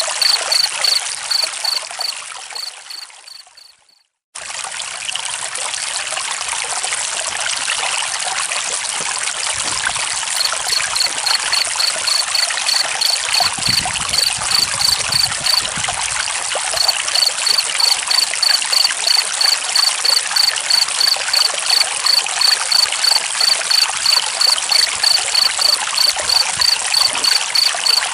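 Flowing stream water running steadily, with a cricket chirping in short even pulses about three a second over it. The sound fades out to silence about four seconds in and starts again, and the chirping pauses briefly past halfway.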